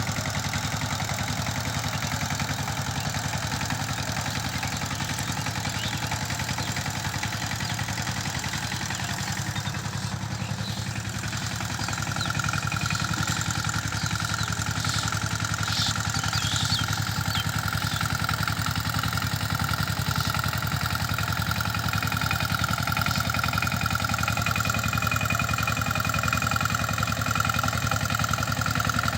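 16 HP single-cylinder diesel engine of a power tiller running steadily. A steady high whine joins in a little under halfway through.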